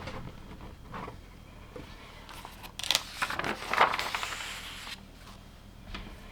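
Plastic LEGO pieces being handled and pressed together: scattered light clicks and rattles, busiest around three to four seconds in, with a short rustling stretch.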